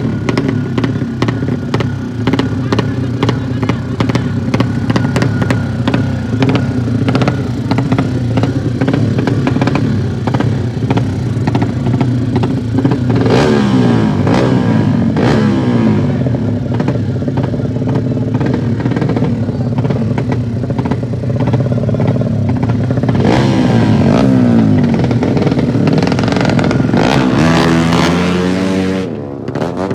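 200cc motocross bikes racing at high revs. The engine pitch sweeps up and down several times as bikes rev and pass.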